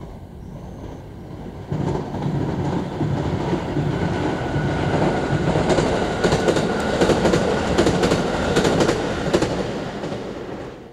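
Rapid Marine Liner electric train (JR Shikoku 5000 series with JR West 223-5000 series cars) passing at speed. Its running noise builds about two seconds in, a quick run of wheel clicks over the rail joints comes in the middle, and it fades as the train moves away near the end.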